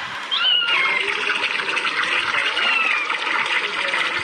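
Steady rushing of running water that gets louder about half a second in, with a few short, high, falling calls over it.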